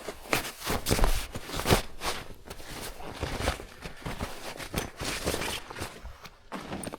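Irregular rustling, clicks and knocks of camping gear being handled and unpacked.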